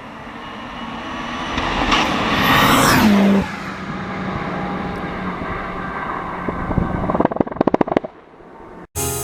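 Turbocharged Opel Kadett E (Astra Mk2) four-cylinder under hard acceleration, growing louder for about three seconds before its pitch sweeps down and the sound drops away abruptly. It settles to a lower steady drone, and about seven seconds in comes a rapid string of sharp exhaust pops and bangs.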